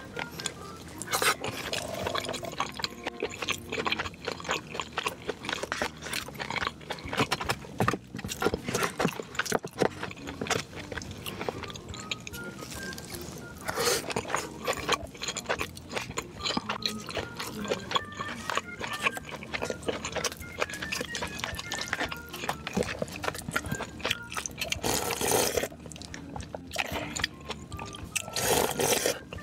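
Close-miked eating sounds: irregular crunching and chewing clicks of crispy food, with a few louder bites. A quiet melody runs underneath.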